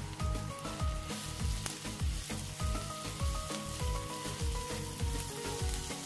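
Sliced mushrooms and onion sizzling as they fry in a stone-coated frying pan, stirred with a wooden spatula. Background music with a steady beat plays over it.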